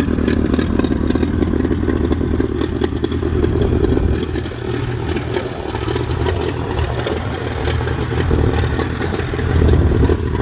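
Allis-Chalmers WD45 tractor's four-cylinder engine running after a start from a few hours' sitting, its level dipping about four seconds in and rising again near the end.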